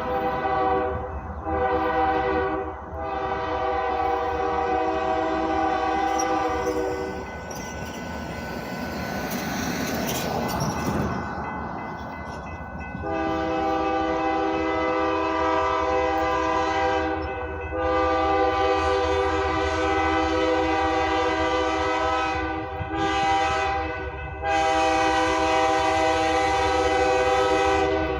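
Freight locomotive's multi-chime air horn blowing a series of long blasts, then a short one and a final long one near the end. In a gap of about six seconds partway through, the horn stops and the rumble of the passing train takes over.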